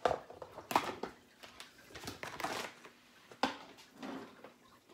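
Knife cutting cooked chicken breast among meal-prep dishes: three sharp knocks, at the start, just under a second in and about three and a half seconds in, with softer scraping and rustling between them.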